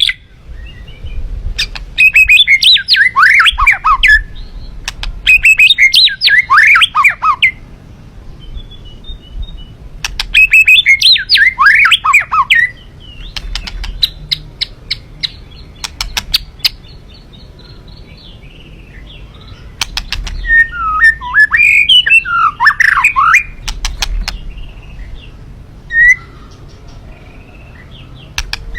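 A songbird singing in four bursts of rapid, warbling chirps, each a few seconds long, with sharp clicks between the phrases and a single chirp near the end.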